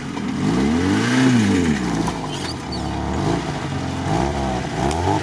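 VAZ-2101 Zhiguli engine revving up hard and falling back, twice, as the car strains up a muddy forest slope. The clutch is overheating and smoking.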